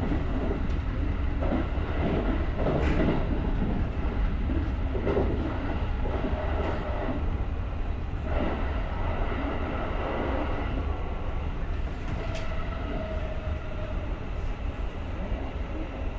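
JR rapid electric commuter train running along the track, heard from the front cab: a steady low rumble with occasional sharp clicks and knocks of the wheels over the rails.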